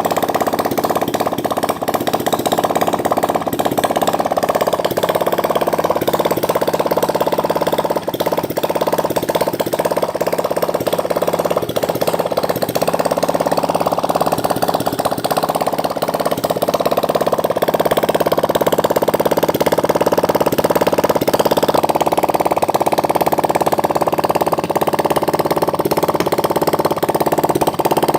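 Water-cooled 175cc engine running steadily with a rapid ticking beat, its note shifting slightly about three quarters of the way through.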